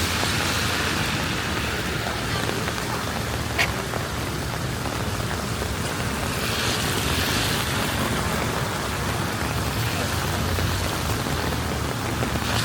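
Steady rain falling on city streets, an even hiss with one sharp click about three and a half seconds in.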